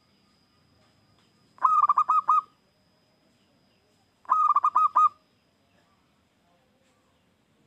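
Zebra dove (perkutut) cooing: two short phrases of about five quick, clear notes each, the first a couple of seconds in and the second about halfway through.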